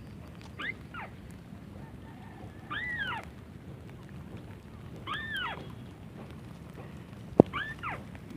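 White-browed crake calls: short nasal calls that rise and fall in pitch, four times about two seconds apart, over a low steady background noise. A single sharp click comes near the end and is the loudest sound.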